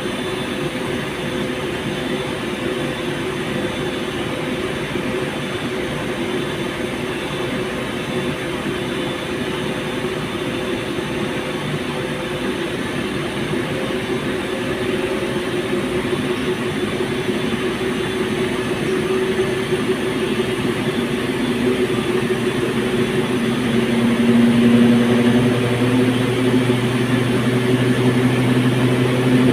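Fagor washing machine's drum and motor, run by a Delta MS300 variable-frequency drive, turning steadily in the load-distributing stage. The machine noise slowly grows louder, and a stronger low hum comes in about three-quarters of the way through as the drum speed rises.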